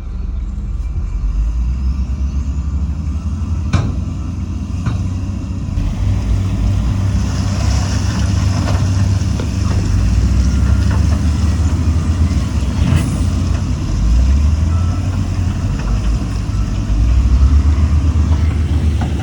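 Heavy diesel earthmoving equipment running steadily with a deep engine rumble, with two sharp clanks about four and five seconds in and a brief hiss near eight seconds.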